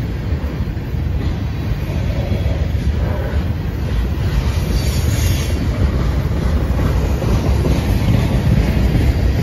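Freight train cars (tank cars, a covered hopper and centerbeam flatcars) rolling past with a steady low rumble of wheels on the rails, growing slightly louder.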